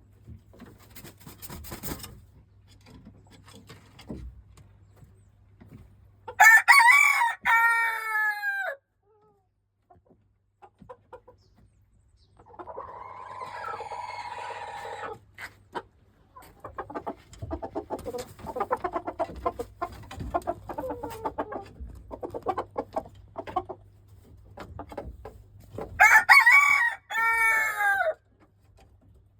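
Silkie rooster crowing twice, about twenty seconds apart, each crow a loud multi-part call falling in pitch at the end. Softer chicken clucking and calls fill the time between the crows.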